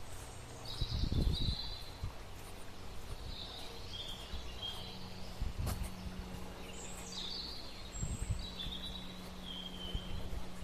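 Birds calling outdoors: short chirping phrases repeated about five times, over a background of outdoor noise with a few low thumps and a faint steady low hum from about four seconds in.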